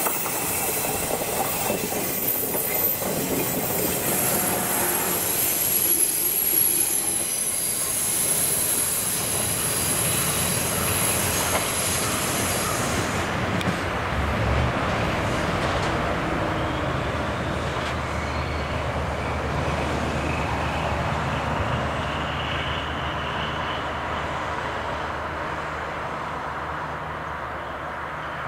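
A train of two 12-series passenger coaches passes close by with high-pitched wheel squeal for about the first thirteen seconds. Then a DE15 diesel-hydraulic locomotive pushing at the rear goes past, its engine running steadily and fading as the train moves away.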